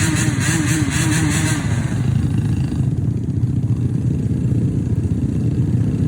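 A motor vehicle's engine running steadily under way on an offroad trail, with a pulsing, rattling hiss over it for the first two seconds or so that then fades.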